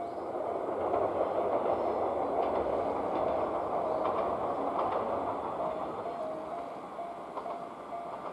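A train running past on the rails, its noise building over the first second and easing off during the second half, with faint clicks from the wheels.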